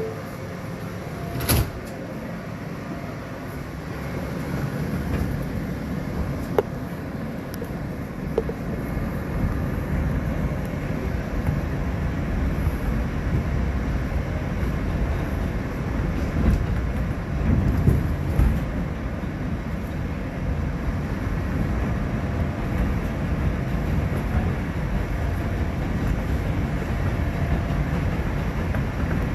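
Inside a New York City subway car on the elevated N line: the sliding doors shut with a knock about a second and a half in. Then the train pulls out and runs on with a steady rumble of wheels on the rails, broken by a few short clicks and squeaks.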